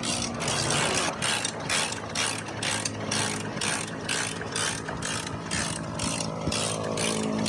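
Motorcycle engine running, with a fast, regular mechanical clicking about four times a second over a steady low hum.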